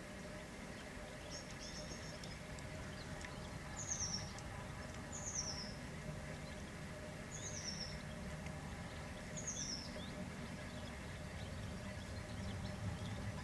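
A small bird calling: a short buzzy note about a second in, then four short high notes, each falling in pitch, roughly two seconds apart, over a low steady background hum.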